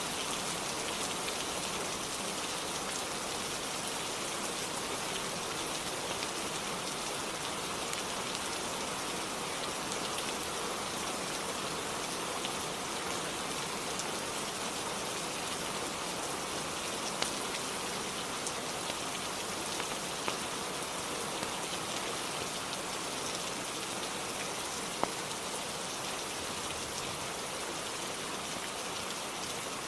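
Steady rain falling on a roof, an even hiss of drops, with a few brief sharp clicks in the second half.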